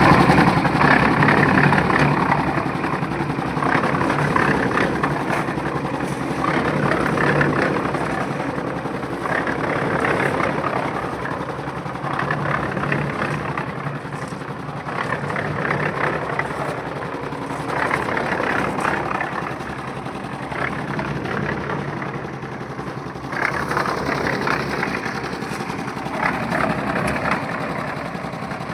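An engine-driven machine running steadily, its level swelling and easing every few seconds.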